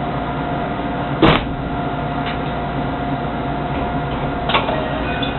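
Inside a JR West 223 series electric train: a steady electrical hum with a few held tones, broken by two sharp clicks about three seconds apart.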